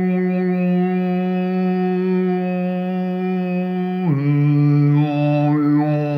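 A man humming a qigong humming exercise: one long, steady hummed note that drops to a lower note about four seconds in and holds there, its tone colour shifting near the end.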